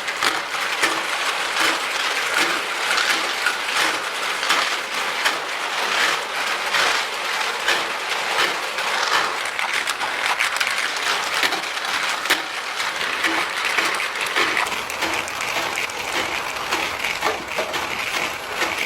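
Motor-driven ball lift running under load: a dense, continuous clatter of many balls knocking against each other and the mechanism as they are carried up.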